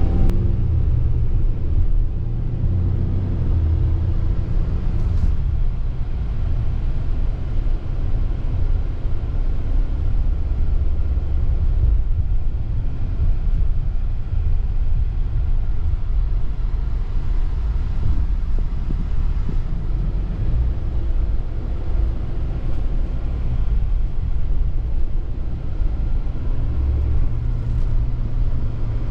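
Ram 3500 dually pickup with a 6.7-litre Cummins inline-six turbo diesel, driving: a steady low rumble of engine and road noise, heard from inside the cab.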